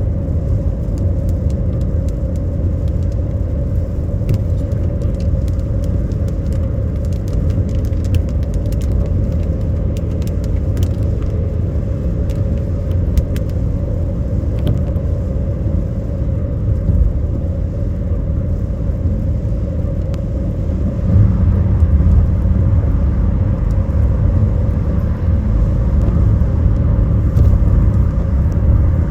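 Car cabin noise while driving: a steady low road and engine rumble that grows louder about two-thirds of the way through.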